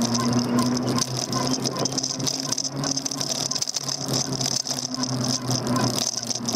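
Daymak Max e-bike rattling as it rides over the road, with many irregular small knocks picked up through the handlebar-mounted camera. A steady electric-motor hum runs underneath.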